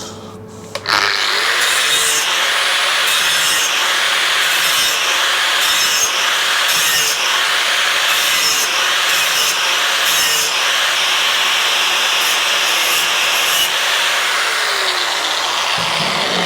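Angle grinder spinning up, then from about a second in held against the motorcycle cylinder head, giving a loud, steady, harsh abrasive grinding. The motor's pitch sags down under load near the end.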